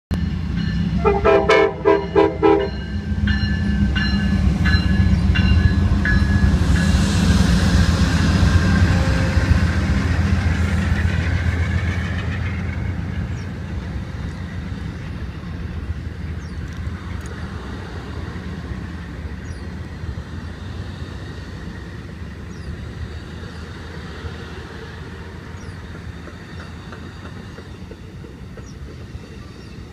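Amtrak diesel-hauled passenger train passing: its horn sounds in a quick string of short blasts about a second in, then the low rumble of the locomotives and the rush of wheels on rail, loudest in the first twelve seconds. The sound fades as the double-deck Superliner cars roll by, leaving a steady clickety-clack of wheels over rail joints.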